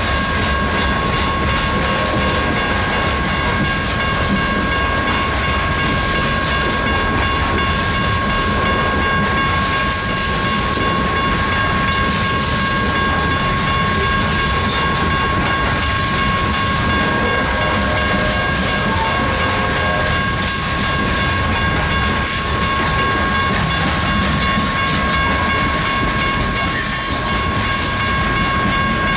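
Coal train's hopper cars rolling past steadily, wheels clacking over the rails, with a steady high tone over the rumble.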